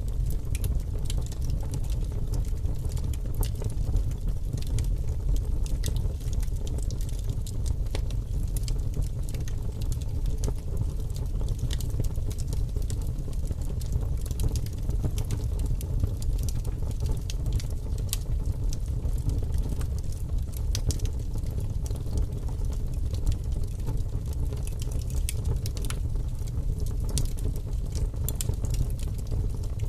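Firewood burning in a fireplace, crackling with many irregular sharp pops and snaps over a steady low rumble of the flames.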